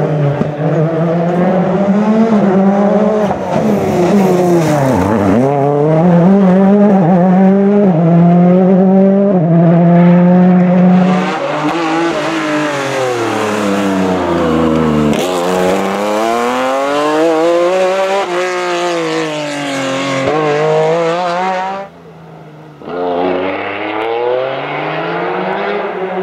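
Rally car engine driven hard, its pitch climbing and dropping again and again through gear changes and braking. The sound drops away suddenly about 22 seconds in, and a revving engine comes back about a second later.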